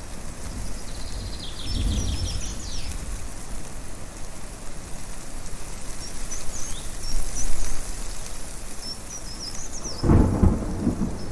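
Thunder rumbling, a low roll about two seconds in and a louder clap with rumble near the end, over a steady hiss of strong wind. Birds chirp in short bursts during the quieter stretches.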